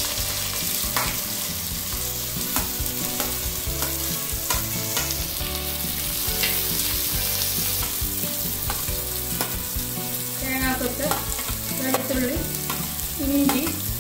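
Chopped shallots, garlic, green chillies and curry leaves sizzling as they are pushed into hot coconut oil with mustard seeds in an uruli, with a steady crackle and the scrape and tap of a metal spoon on the plate and pan.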